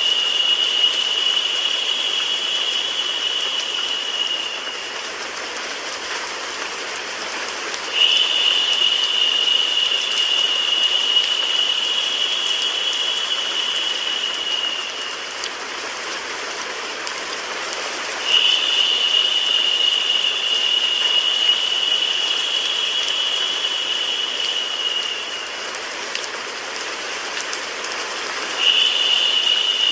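Steady rain-and-white-noise hiss with no low rumble. A brighter, higher hissing layer cuts in suddenly about every ten seconds, holds for about seven seconds and then eases off, so the sound swells and drops in a repeating loop.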